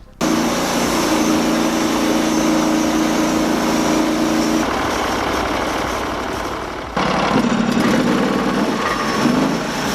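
Engine-powered sawmill running loud and steady while its saw cuts through a log. The sound changes abruptly about seven seconds in.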